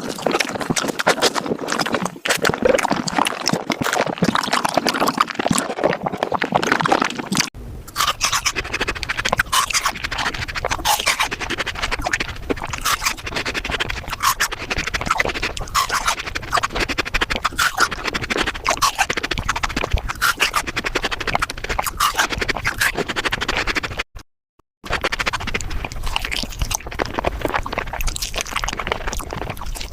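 Close-miked eating sounds played at five times speed: a fast, dense stream of chewing and wet mouth clicks. The sound changes abruptly about a quarter of the way in, and breaks off in a brief silence near the end before going on.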